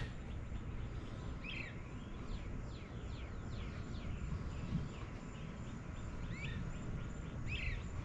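Birds chirping in short, curved calls spaced a few seconds apart, over a steady low background rumble.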